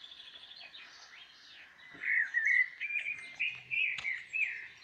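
A songbird singing a run of varied whistled phrases that starts about two seconds in. Fainter bird chirping comes before it.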